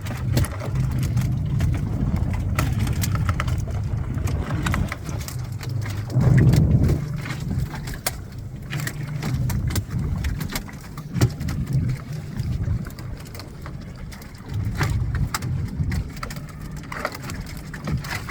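Scattered knocks, clicks and rattles as fish are taken out of a fish trap (fish pot), over a steady low rumble from the boat, with a louder surge of rumble about six seconds in.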